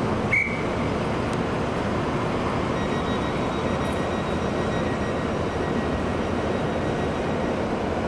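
A train running past on the line: a steady rush of wheel and running noise. A faint high whine joins in from about three seconds in, and there is a brief high squeal or tone near the start.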